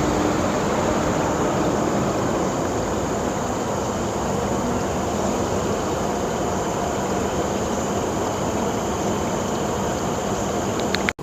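Steady, even rushing noise with a faint low hum underneath, cut off abruptly near the end.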